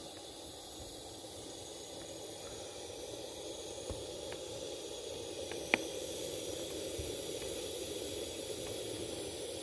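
Wind rushing steadily, slowly building in strength, with a few faint ticks and one sharp click about halfway through.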